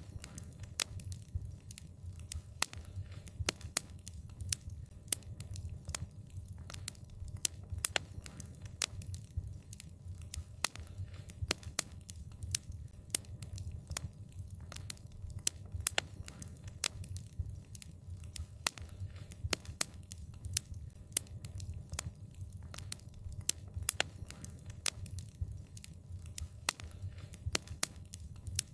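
Wood fire crackling: frequent sharp, irregular pops and snaps over a steady low rumble of the burning fire.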